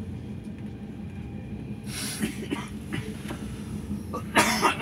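Steady low rumble and hum of a moving Al Boraq high-speed train, heard from inside the passenger cabin. A short hiss comes about two seconds in, and a louder short burst of noise near the end.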